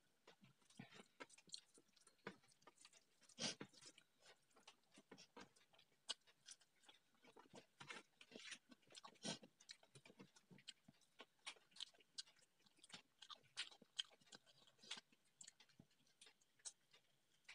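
Close-up eating sounds of someone eating by hand: faint chewing and lip smacks, a string of irregular soft clicks.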